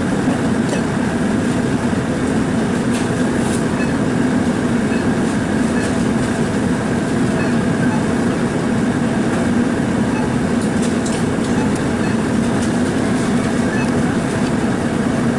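Steady running noise of a vehicle on the move, a continuous engine and road drone with a constant low hum and a few faint light clicks.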